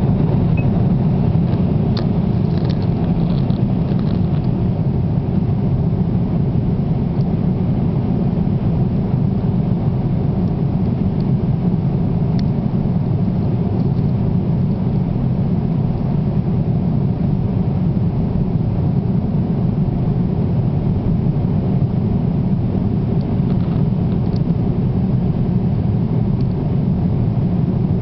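Steady low rumble of an aircraft in flight, heard from inside the cabin, unchanging throughout.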